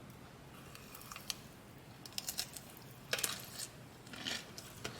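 Close-miked eating sounds of a Rice Krispie treat donut: scattered crisp clicks and crackles, bunched about two, three and four seconds in.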